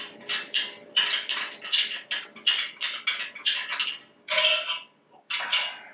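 A quick, irregular run of short clinks and rattles, about two to three a second, as metal parts and tools are handled during the truck's front-end teardown; one clink a little after four seconds in rings briefly.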